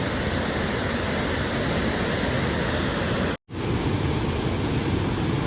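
Waterfall rushing, a loud steady roar of falling water, broken by a momentary gap in the sound about three and a half seconds in.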